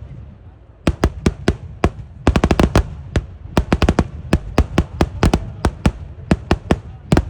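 Kerala eeduvedi fireworks: a rapid, irregular series of sharp, loud explosions, several a second. There is a short lull about a second in, then a quick volley of bangs two to three seconds in.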